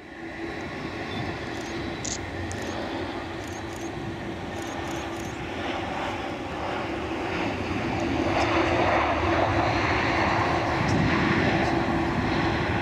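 Jet airliner engines running: a steady tone over a rushing noise that grows louder about eight seconds in.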